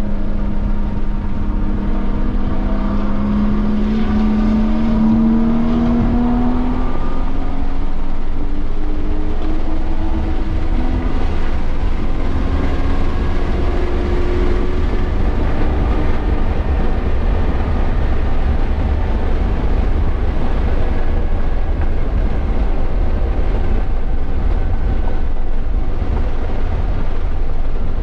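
2017 BMW M240i's turbocharged 3.0-litre inline-six under hard acceleration on track, its pitch rising over the first several seconds and rising again partway through, over steady wind and road rumble.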